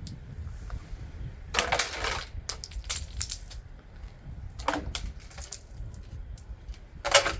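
Chunks of ice and packed snow breaking off a roof edge and clattering down with a clinking, crunching sound, in three main bursts about three seconds apart, with smaller ticks between.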